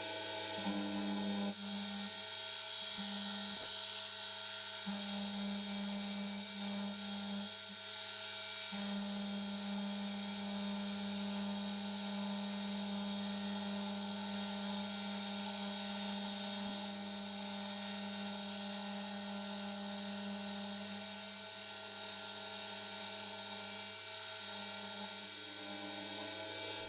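Milling machine running a 4 mm end mill along a shaft, cutting a locking slot 2 mm deep: a steady motor hum with a tone that comes and goes during the first nine seconds, then holds steady.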